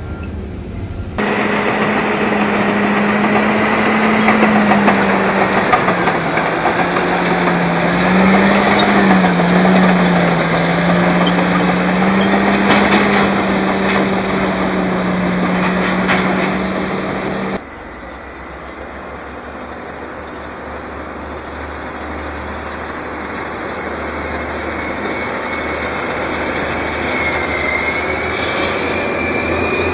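Diesel engines of Caterpillar earthmoving machinery working under load, a strong engine note that dips and rises. About two-thirds of the way through, the sound cuts abruptly to a quieter engine running that slowly grows louder.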